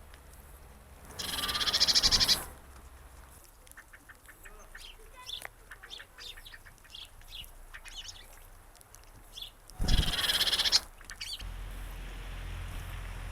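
Bird calling: two loud calls of about a second each, some eight seconds apart, with softer short chirps and clicks between them.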